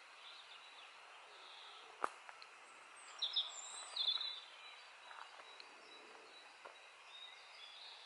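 Faint outdoor ambience with a steady hiss, a single sharp knock about two seconds in, then a short burst of high bird chirps about three to four seconds in.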